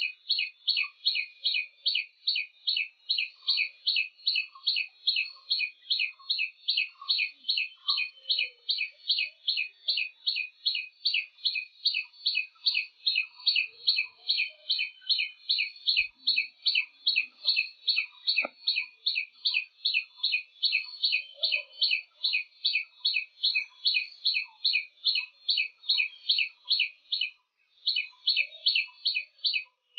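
A bird calling with a high, sharp chirp over and over, about three chirps a second, with a short break near the end. Fainter, lower notes repeat more slowly underneath.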